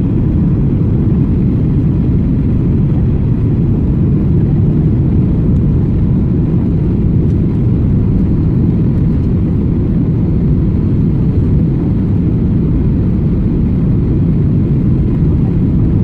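Passenger airliner heard from inside the cabin: a steady, loud, low rumble of engine and airflow noise.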